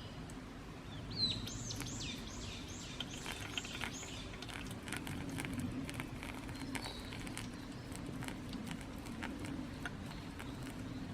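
A wild songbird singing a quick run of about seven descending whistled notes, starting about a second in, followed later by a few fainter calls. Scattered light clicks and a steady low hum sit beneath.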